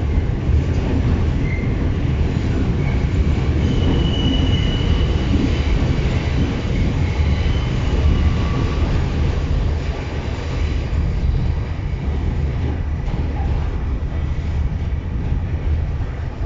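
New York City subway car running on the rails, heard from inside the car: a steady low rumble of wheels on track, with high-pitched wheel squeals through the first half that fade out about ten seconds in.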